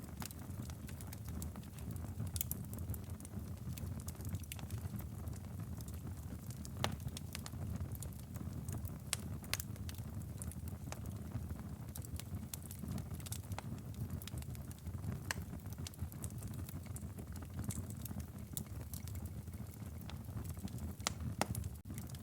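Wood fire burning in a fireplace, with a steady low rumble of the flames and frequent irregular crackles and sharp pops from the firewood.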